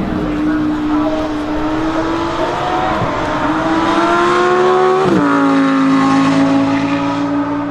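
Koenigsegg Jesko Attack Plus's twin-turbo V8 under acceleration, its pitch climbing, dipping briefly about three seconds in and dropping sharply about five seconds in at upshifts, then holding a steady pitch.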